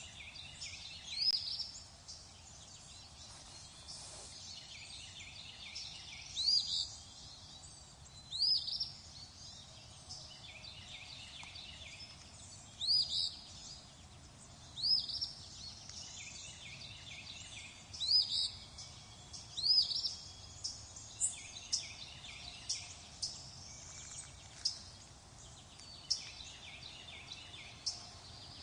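Songbirds chirping: one bird repeats a short, high call about every two seconds, with softer twittering from other birds around it. In the last third the calls turn into a run of quicker, shorter chirps.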